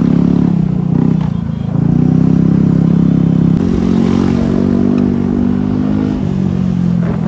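Motorcycle engine running under way, easing off briefly about a second in and pulling again, its note shifting at about 3.6 s. The sound cuts off abruptly at the end.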